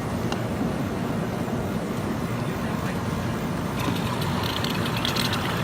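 Steady engine and road noise heard from inside a moving bus, a continuous low rumble. From about four seconds in, light rattling or ticking joins it.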